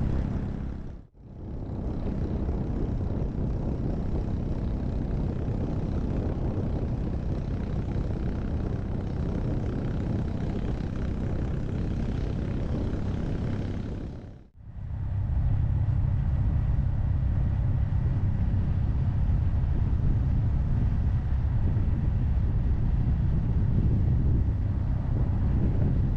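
Riding noise from a Honda Monkey 125 on the move: wind rushing over the microphone mixed with the small single-cylinder engine and road noise, steady and heavy in the low end. It cuts out briefly twice, about a second in and about halfway through.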